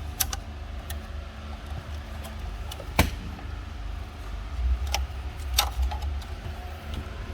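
Plastic dashboard trim panels and clips being handled and pried loose: scattered clicks and knocks, the sharpest about three seconds in, over a steady low hum.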